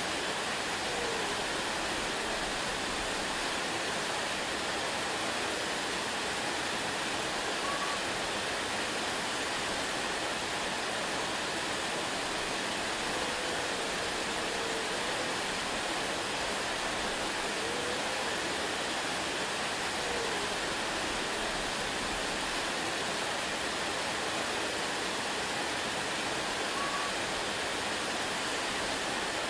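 Waterfall: a steady, even rush of falling water. A few faint, short notes that rise and fall in pitch sound through it now and then.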